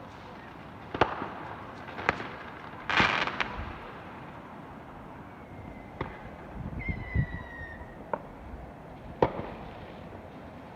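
Fireworks going off: a string of sharp bangs spread over several seconds, one of them a short crackling burst about three seconds in, and a thin falling whistle a little past the middle.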